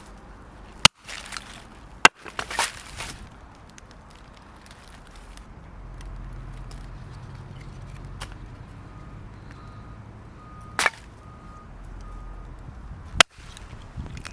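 A few sharp, separate cracks of wood being chopped, about four over the stretch, with quiet rustling and handling between them.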